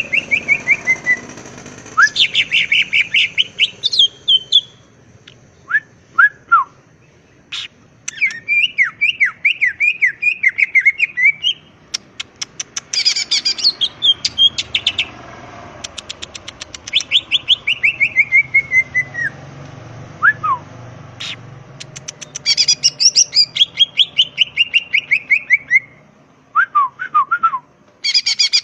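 Cucak ijo (green leafbird) singing loudly in repeated phrases of rapid chirps, many sliding down in pitch, with fast clicking runs and short breaks between phrases.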